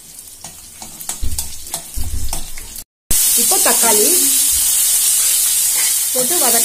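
Metal ladle clicking and scraping in a kadai, with a couple of low knocks. After a break about three seconds in, a loud, steady sizzle of chopped tomatoes and onions frying in hot oil, with a woman's voice briefly over it.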